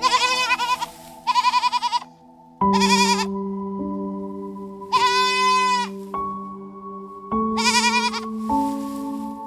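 A farm animal bleating five times, each call wavering in pitch, over background music of sustained held notes.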